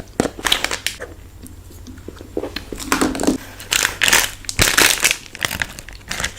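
Plastic ice-cream wrapper being crinkled and torn, in irregular bursts of crackling.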